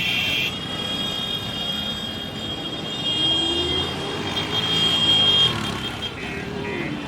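Motor vehicle or machine engine running, with a steady high-pitched whine over it and a tone that rises about three seconds in.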